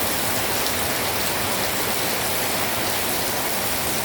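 Heavy rain pouring down, a dense and steady hiss of drops hitting surfaces.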